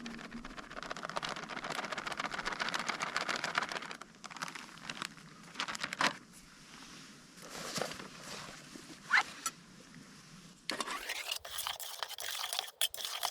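Flour being stirred into yeast water in a camping pot: irregular scraping of a utensil against the pot, with scattered clicks, making dough.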